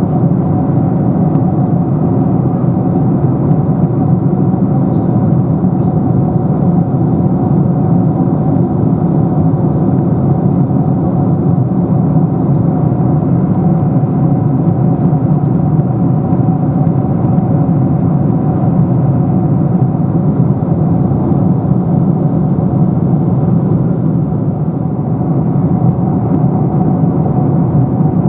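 Steady cabin noise of a Boeing 747-400 in cruise: the constant low rumble and rush of its four jet engines and the airflow, heard from inside the cabin.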